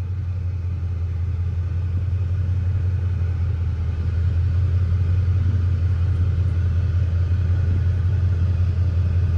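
Car engine and exhaust running with a steady low rumble, growing gradually louder.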